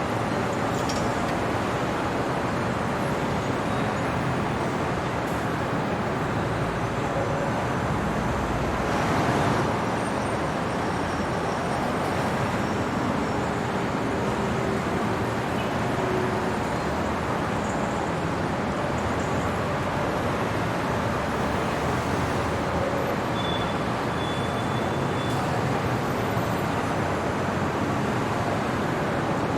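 City traffic noise: a steady wash of road noise, with one vehicle passing, a little louder, a little under ten seconds in.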